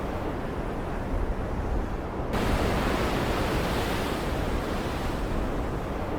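Storm-at-sea ambience: steady rushing of ocean waves and rain over a deep low rumble. The hiss brightens abruptly a little over two seconds in, then slowly dies back.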